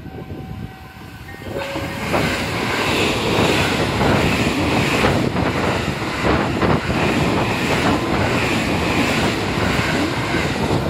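A JR West Thunderbird limited express electric train runs past the platform: a loud rush of train noise comes up suddenly about a second and a half in and holds, with the repeated clatter of wheels over rail joints.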